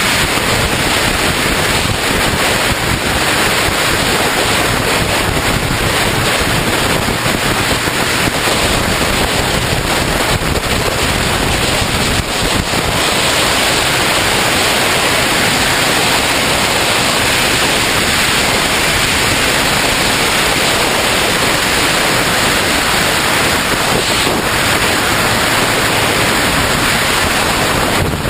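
Steady, loud wind rushing over the microphone of a motorcycle riding at speed.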